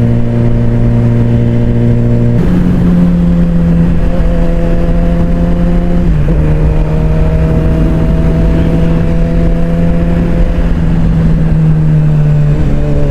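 Suzuki GSX-R600 inline-four engine running steadily while the bike is ridden, with a rough rush of wind noise underneath. The engine note jumps up about two seconds in, then steps down about six seconds in and again near the end, like gear changes.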